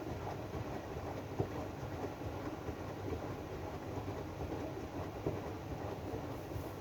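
AEG DualSense front-loading washing machine running its drum-clean cycle: the drum turning with a steady low rumble and scattered light knocks, one sharper about a second and a half in.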